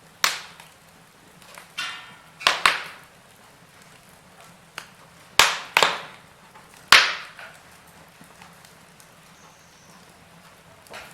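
Wood fire in a fireplace crackling, with about six sharp, loud pops spread over the first seven seconds and a brief hiss just before two seconds in.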